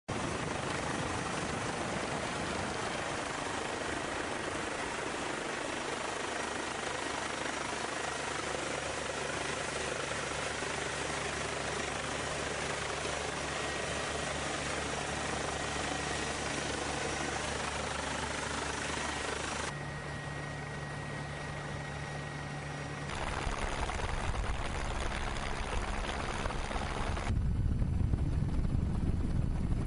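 Steady aircraft engine noise, like a helicopter, with faint steady tones. The sound changes abruptly a few times in the last ten seconds and grows deeper and louder near the end.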